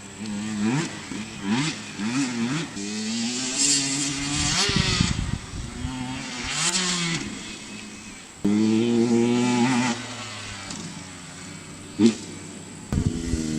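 Dirt bike engine revving up and down over and over as the bike is ridden, the pitch climbing and dropping with each throttle blip and gear change. Short bursts of rushing noise come in a couple of times, with a sharp knock about twelve seconds in.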